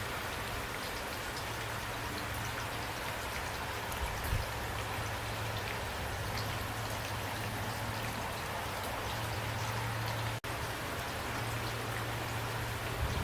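Steady rain falling, with scattered individual drops ticking over a continuous hiss and a low steady hum underneath. The sound breaks off for an instant about ten seconds in.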